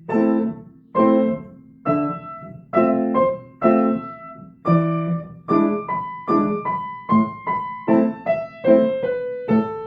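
Piano playing a passage of chords, struck about once a second at first, then with quicker notes from about halfway in.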